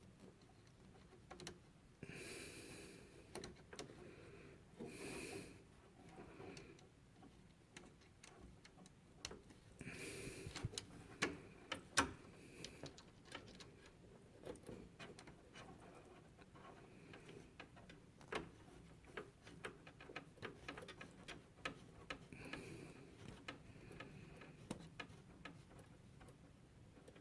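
Faint handling noises of a plastic water supply line being fitted and hand-threaded onto a refrigerator water inlet valve: scattered small clicks and ticks with a few brief rustling swishes.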